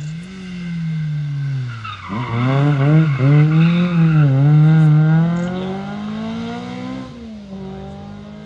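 A rally car's engine coming down in revs into a tight hairpin, then accelerating hard away. Its pitch drops and climbs several times with the gear changes, and it fades as the car drives off into the distance.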